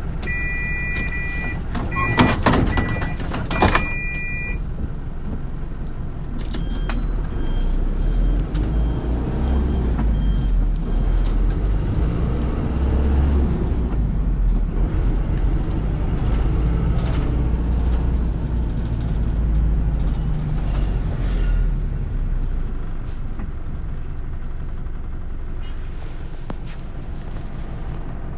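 City bus, its door warning beeping repeatedly while the doors close with two thuds in the first few seconds. The engine then pulls the bus away, running louder as it accelerates, and eases off near the end.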